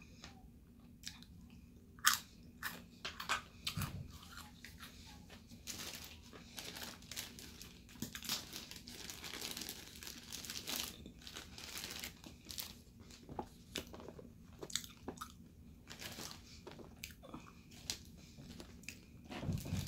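Crunching and chewing of a crispy fried cream cheese wonton: a few sharp crunches about two seconds in, a dense stretch of crackling crunch in the middle, then slower, sparser crunches as the chewing goes on.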